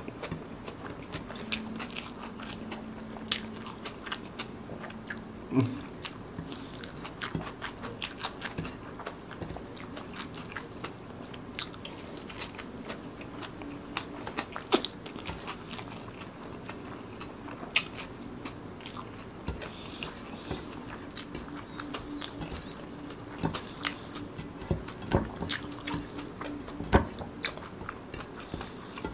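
A person eating rice and fried food by hand close to the microphone: steady chewing with many sharp mouth clicks and smacks at irregular intervals, a few of them louder.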